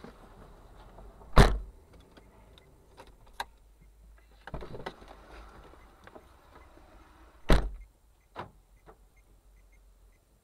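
Two sharp thumps about six seconds apart, the first a little over a second in and the second near three-quarters of the way through. Between and after them come a few fainter knocks and clicks over a low background.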